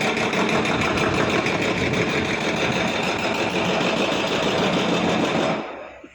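A loud, steady engine running with a fast, even pulse, cut off abruptly near the end.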